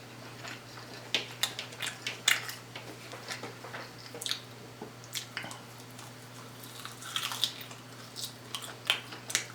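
Close-up chewing and wet mouth sounds of someone eating, with irregular smacks and clicks. A faint steady hum runs underneath.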